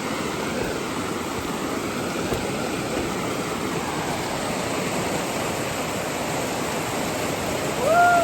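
Creek water running steadily. A brief voice-like call, rising and falling, comes near the end.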